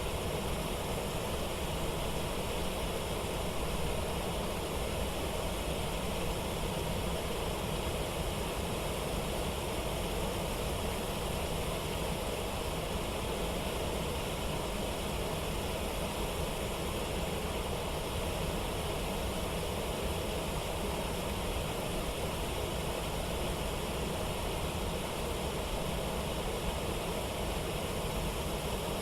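Steady rushing of falling water, an even roar with no single events standing out.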